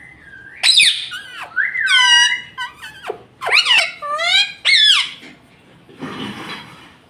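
Rose-ringed parakeet calling: a string of about six loud, gliding, whistle-like calls and squeaks, some sweeping up and others sweeping down, followed by a short rustling noise about six seconds in.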